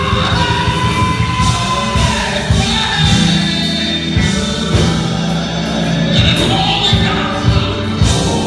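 Gospel music with a choir singing over bass and drums.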